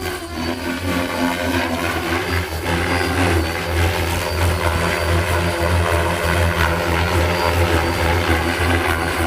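Oxy-5 electric RC helicopter in flight: steady pulsing rotor buzz with a thin high motor whine, a little louder from about three seconds in.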